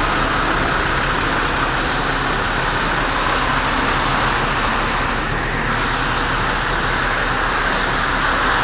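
Steady road traffic noise, an even rushing with no distinct events.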